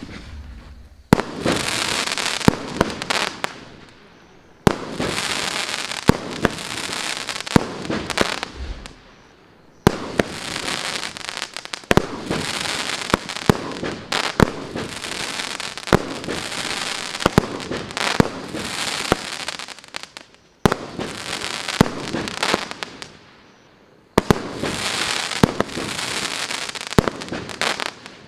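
A 36-shot consumer firework cake (Maxsem 'Ghostly Beauty' SB-36-02) firing: about ten sharp bangs a few seconds apart, each followed by a few seconds of dense crackling that fades out.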